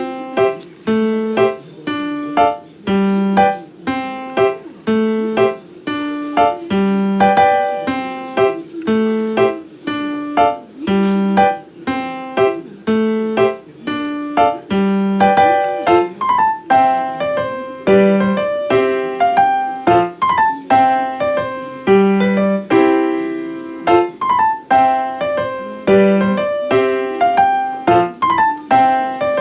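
Background piano music: a steady, repeating phrase of struck notes, a few notes a second.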